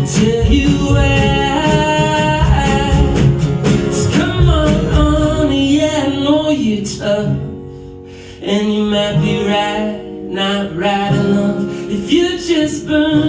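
Live indie-folk band playing a song, with a male lead vocal singing over guitar and other instruments. About seven seconds in, the sound thins out and drops quieter for a moment, then the voice and band come back in full.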